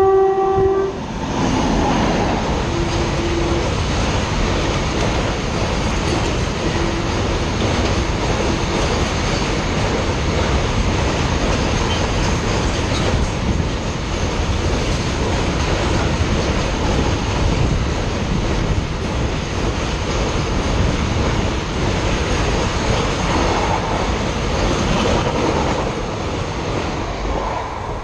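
Indian Railways WAG-9Hi electric locomotive finishing a horn blast about a second in, then its container freight train running through at speed: a loud, steady rumble of wagon wheels on the rails. It fades near the end as the last wagon passes.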